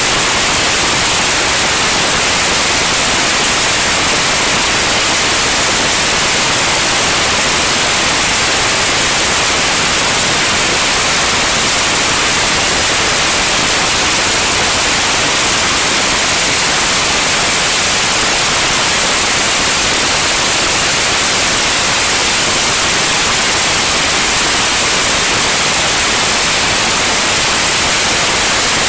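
Steady, loud hiss of rushing air and engine noise inside a light airplane's cabin in flight, with no change over the whole stretch.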